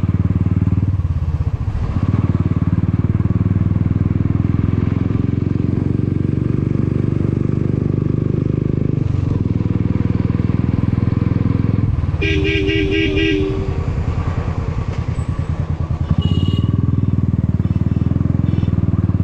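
Motorcycle engine running steadily under way, heard from the rider's helmet. About twelve seconds in a horn sounds for just over a second in a rapid pulsing beep.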